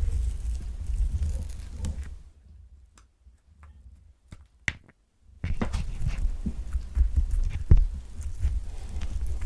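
A large, thick-skinned orange handled close to the microphone: it is rolled and tapped on a hard surface with a low rumble and crackly clicks. About two seconds in this stops for a few seconds, leaving only a few light clicks. Then crackly scratching and tapping resume as fingers start working at the thick peel.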